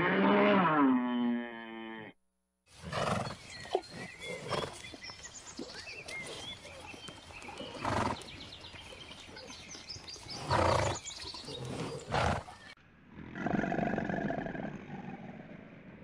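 A long-horned zebu cow moos once, loudly, the call falling in pitch over about two seconds. Zebras follow, with short loud calls about 8, 10.5 and 12 seconds in. Near the end comes a low, steady call from a crocodile.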